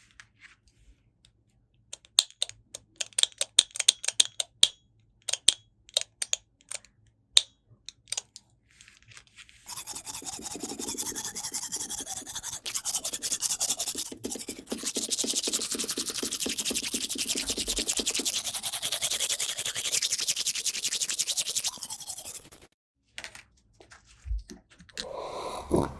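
A run of light, sharp clicks and taps, then a fast, steady scrubbing sound, like brushing, that lasts about thirteen seconds and stops suddenly.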